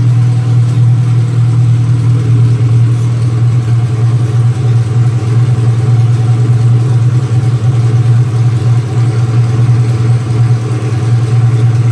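Engine of a 1987 Dodge Raider 4x4 mud-racing truck running at a loud, steady idle, with no revving.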